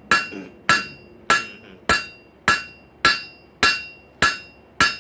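Blacksmith's hand hammer striking a hot rail spike on an anvil in a steady rhythm, nine blows at a little under two per second. Each blow has a short metallic ring from the anvil.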